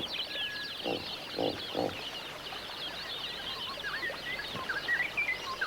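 Wetland bird chorus: many birds chirping and calling at once in a dense continuous mix, with scattered sliding whistled calls and three short lower calls a second or so in.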